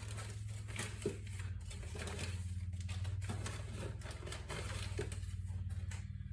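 Light clicks, taps and rattles of small engine parts being handled on a workbench, over a steady low hum.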